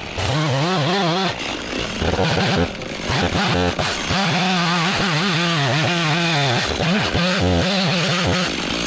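Two-stroke chainsaw cutting through a felled log, its engine pitch wavering up and down under load, with a few short dips.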